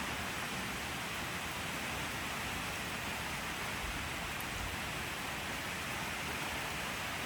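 Steady rain: an even hiss that holds level throughout, with no single drops or thunder standing out.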